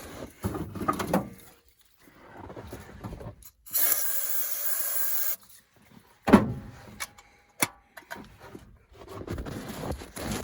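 Rubbing and scraping, then a steady hiss of an aerosol can of starting fluid sprayed for about a second and a half and cut off sharply, followed by a loud sharp knock and a smaller click.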